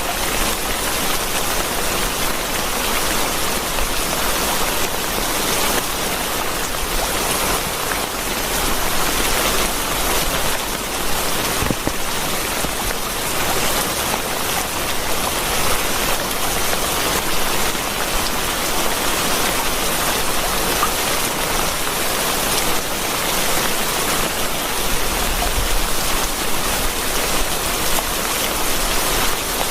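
Steady heavy rain: a dense, even hiss of falling rain with many single drops ticking through it.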